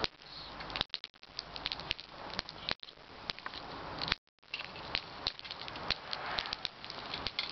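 Campfire crackling: a steady hiss with frequent sharp pops and snaps from the burning wood.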